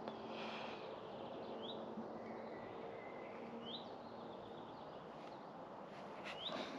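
Faint background noise with a low steady hum, and a small bird giving three short rising chirps about two seconds apart.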